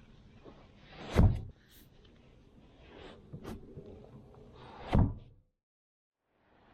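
Feet stomped down into leather work boots: two heavy thumps about four seconds apart, with fainter shuffling and scuffing between them.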